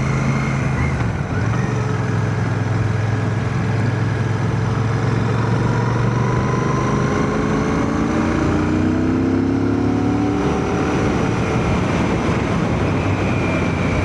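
Royal Enfield Shotgun 650's parallel-twin engine running steadily on the road, with wind and road noise. It is heard through a microphone inside a full-face helmet. There is a short dip in level about a second in.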